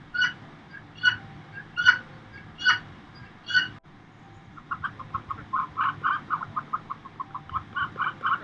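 Bird calls. First comes a series of separate calls, one a little under every second. After a short break, a fast run of short notes follows at about five a second.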